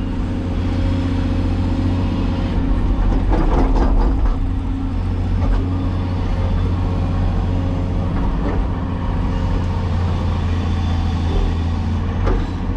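Cat 336E hydraulic excavator's diesel engine running steadily, with a few knocks about three to four seconds in and another near the end.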